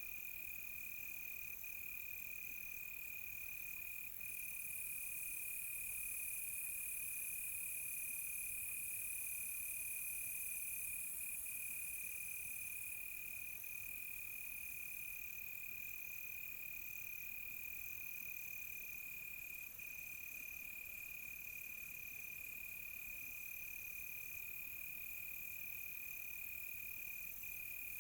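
Night insect chorus: crickets trilling steadily on one high note, with another insect calling higher up in short repeated pulses. A shrill, hissing insect layer above them grows louder about four seconds in and eases back about nine seconds later.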